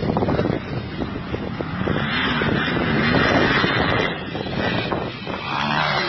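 Motocross motorcycle engines revving as the bikes race, their pitch rising and falling.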